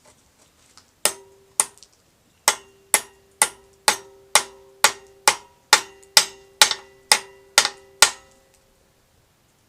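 Hammer blows on metal, about fifteen strikes at roughly two a second, each leaving a brief ringing metallic tone.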